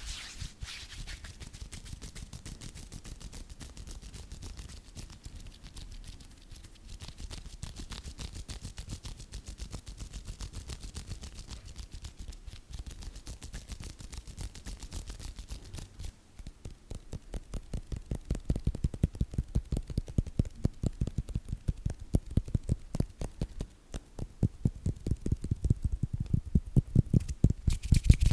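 Close-miked hands rubbing body lotion together in quick, rhythmic strokes. The strokes grow louder and firmer about two-thirds of the way in.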